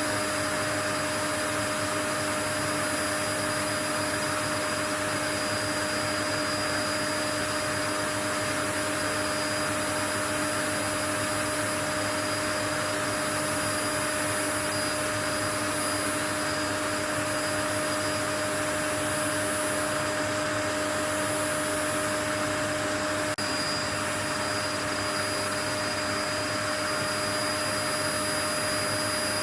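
Steady white noise: an unbroken, even rushing hiss with a few steady humming tones in it, like a running motor, never changing.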